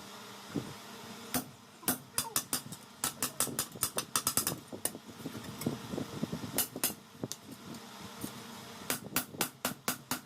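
Hammer striking steel in quick runs of several blows a second, with short pauses between runs, over a steady faint hum.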